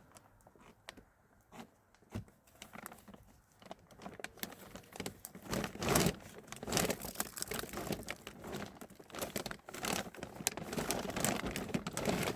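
Plastic sheeting crinkling and rustling as it is handled, faint and sparse at first, then denser and louder after about four seconds.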